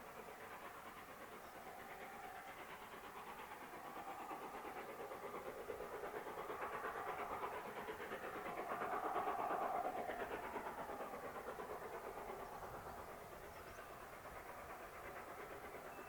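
A steam-hauled train passing, its sound swelling to a peak a little past halfway through and then fading away.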